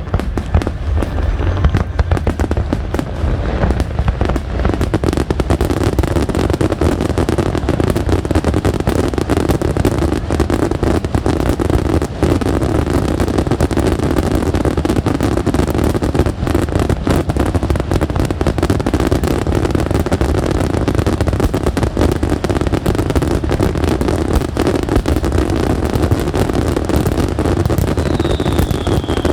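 Aerial fireworks going off in a dense, continuous barrage of cracks and bangs over a heavy low rumble. A short falling whistle is heard near the end.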